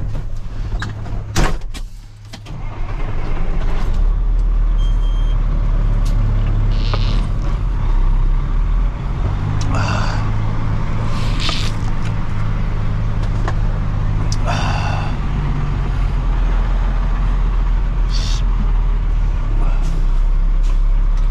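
A heavy vehicle or machine engine running steadily, with a sharp click just after the start and several short high-pitched sounds over the engine later on.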